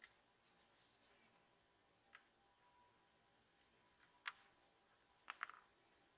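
A few faint, sharp clicks and taps over quiet room tone. The loudest comes about four seconds in, followed by a quick cluster of clicks about a second later.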